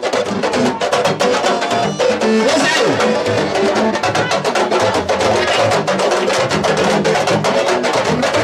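Sabar drums playing fast, dense strokes in a continuous rhythm.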